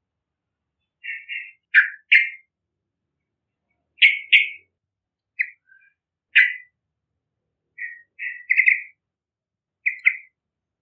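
Yellow-vented bulbul calling in short bubbly phrases of two to four quick notes, a new phrase every second or two with silent gaps between.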